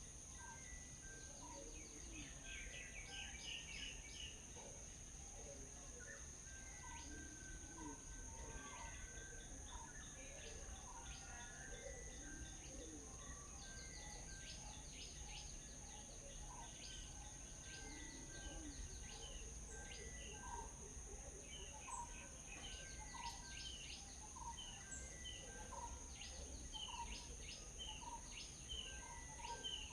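Several small birds chirping and calling in short, repeated notes, over a steady high-pitched drone and low background rumble.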